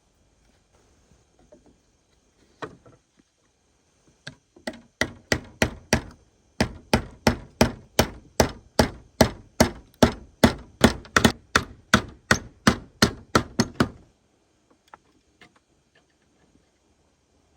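A blade chopping rapidly and evenly, about three strokes a second, in a short run and then a longer one after a brief pause.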